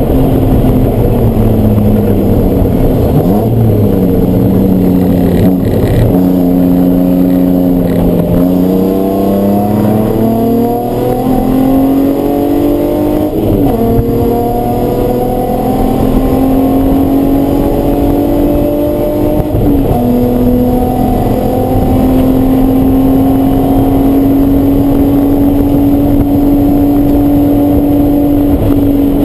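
Race car engine running hard on track: the revs fall away a few seconds in, then climb again through the gears, with sudden drops at two upshifts around the middle, and hold nearly steady near the end.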